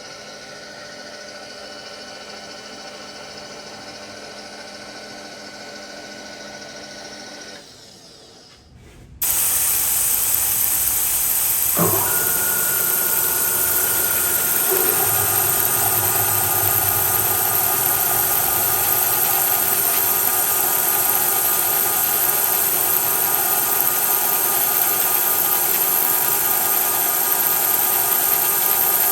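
A quiet steady electric motor hum on a manual milling machine stops after about seven seconds. About nine seconds in, a loud steady hiss starts: the mist coolant spraying. From about twelve seconds a 33/64 jobber drill cutting into steel plate adds a steady whine over it.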